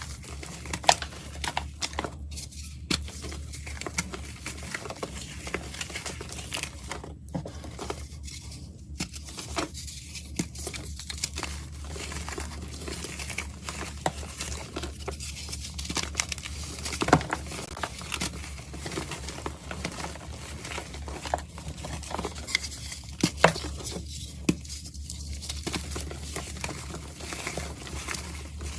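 Pressed powder being crunched and crumbled by hand: a dense run of irregular crackles and small snaps, with loose bits pattering down. A steady low hum runs underneath.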